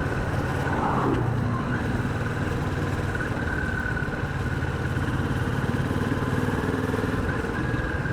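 Kawasaki Vulcan 650's parallel-twin engine running steadily while the motorcycle is ridden along at low city speed, with a brief rise in engine pitch about a second in.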